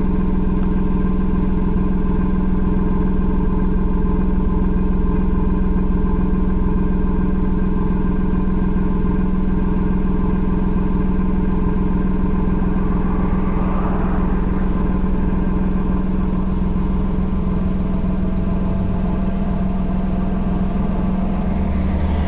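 Suzuki Alto kei car's engine idling steadily at an even pitch.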